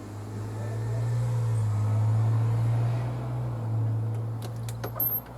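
A low, steady mechanical rumble that swells and then eases off, with a few sharp clicks near the end.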